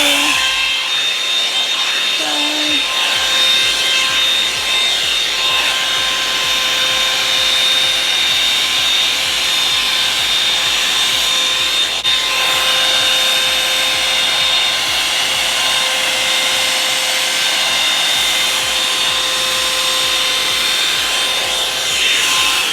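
Revlon One-Step hot-air brush dryer running: a steady rush of blown air with a constant motor whine. It cuts off at the end.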